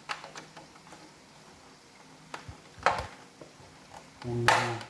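Hard plastic parts of a Roomba robot vacuum clicking and knocking as they are handled and fitted together, with a louder knock about three seconds in. Near the end comes a short, steady buzz lasting about half a second.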